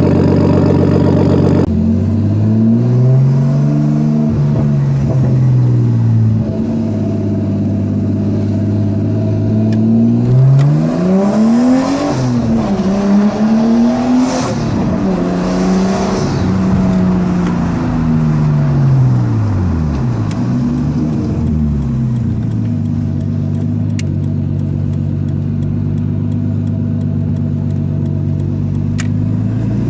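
Nissan Skyline R33's straight-six engine idling through a straight-pipe exhaust with the rear muffler deleted, blipped up in revs several times in the middle and falling back to a steady idle.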